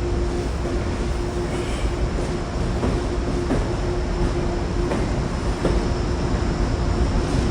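A train running on the rails, with occasional wheel clicks over a steady mechanical hum.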